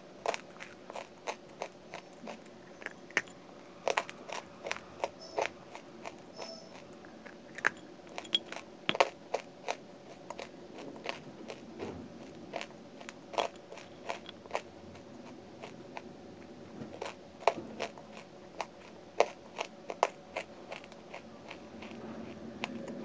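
Close-up mouth sounds of someone chewing a hard, dry grey clay lump: a string of sharp, irregular crunches, roughly one or two a second.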